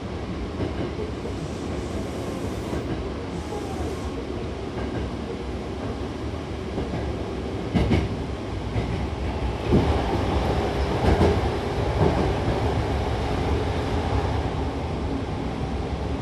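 Hankyu electric train running between stations, heard from inside the car: a steady rumble of wheels on rail, with a few sharp wheel clacks over rail joints in the second half.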